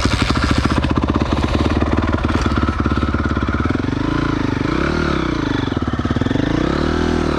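Single-cylinder four-stroke off-road motorcycle engine running with a fast, even beat. Its pitch rises and falls twice in the second half as the throttle is opened and closed while pulling away.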